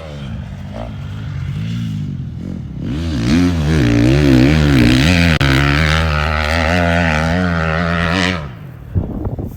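250 dirt bike engine revving hard, its pitch rising and falling with the throttle. It builds to loud about three seconds in, then drops away suddenly near the end.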